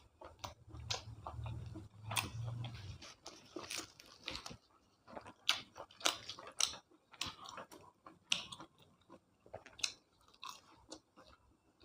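Close-up eating sounds: a person chewing and biting a meal of curry, puri and rice, with irregular wet mouth clicks and crunches. A low hum runs under the first three seconds.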